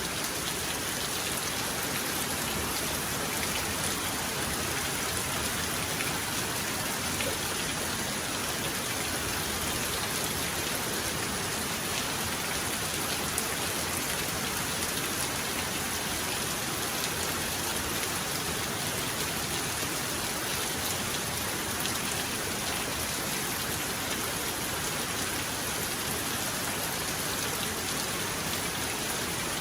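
Heavy rain falling steadily, an even wash of drops on surfaces.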